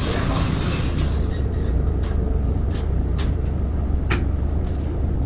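Heavy, steady low engine rumble with scattered light clicks and a sharper knock about four seconds in.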